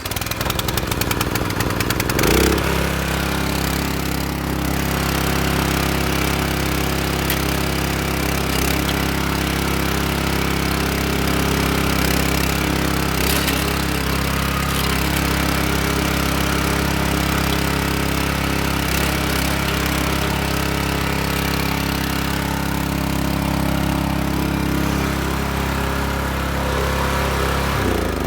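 Small petrol engine of a wheelbarrow tiller on a cold start, catching on the rope pull. It runs unevenly for about two seconds, then settles into a steady run. Near the end it is switched off and winds down.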